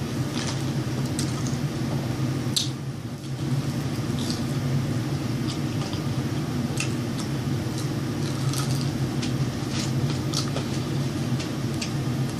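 A person chewing food close to the microphone, with scattered wet mouth clicks and smacks over a steady low hum.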